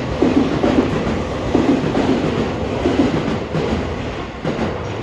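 E257-2000 series electric train passing, its wheels clacking over rail joints in repeated groups of clacks above a steady rolling rumble.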